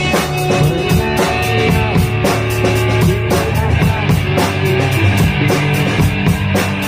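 A rock band playing an instrumental passage: a drum kit keeping a fast, steady beat under electric guitar and bass.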